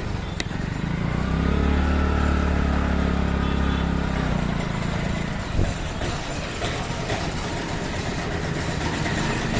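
Street traffic heard from a moving motorbike: steady engine and road noise, with a deeper engine hum close by for about three seconds starting a second in, and a single sharp knock a little past the middle.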